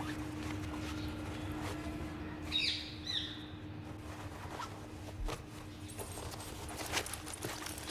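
A bird gives a quick series of short, falling chirps about two and a half seconds in, over a steady low hum and scattered light clicks.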